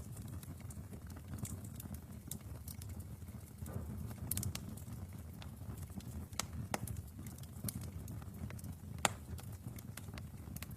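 Wood fire burning in a fireplace: a steady low rumble of flames with scattered sharp crackles and pops, the loudest pop about nine seconds in.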